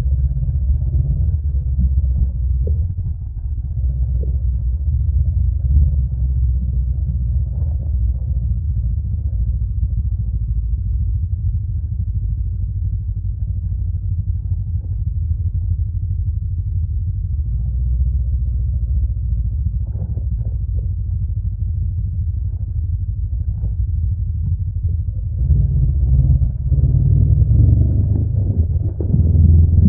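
Honda NX500's 471 cc parallel-twin engine through its stock exhaust, running steadily while riding, a deep low rumble. Near the end it gets louder as the throttle opens.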